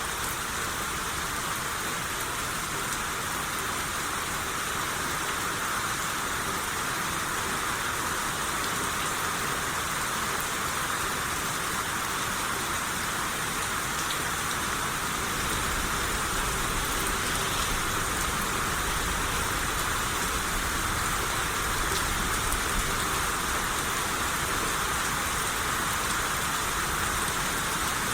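Steady rain shower falling on surfaces, an even hiss with a low rumble joining about halfway through.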